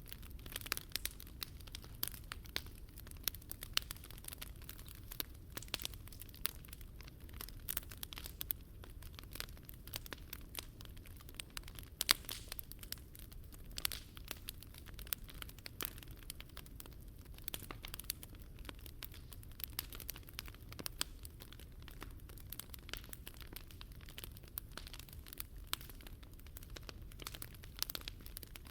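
Wood fire crackling in a Picogrill 398 fire stand: irregular snaps and pops, one louder pop about twelve seconds in, over a low steady rumble.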